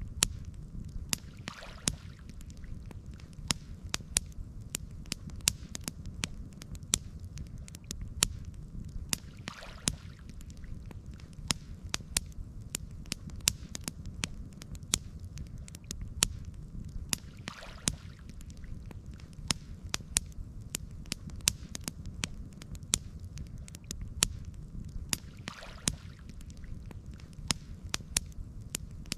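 Campfire crackling: frequent sharp pops and snaps over a steady low rumble, with a soft swish about every eight seconds.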